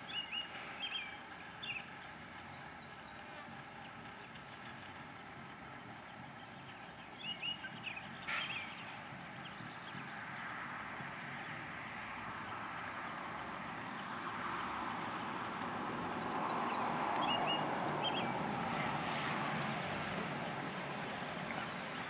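Birds giving short high chirps in small clusters near the start, about a third of the way in, and again later. Under them a passing vehicle's noise swells through the second half, peaks, and eases off.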